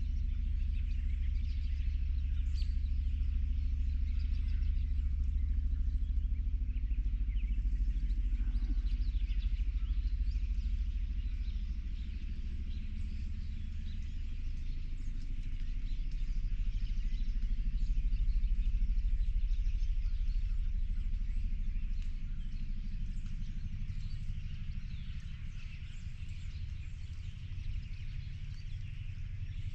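Many birds chirping and singing over a steady low rumble.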